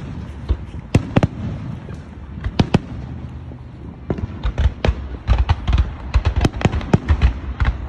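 Aerial fireworks display: shells bursting with sharp bangs, a few spaced ones at first and then coming thick and fast from about four seconds in.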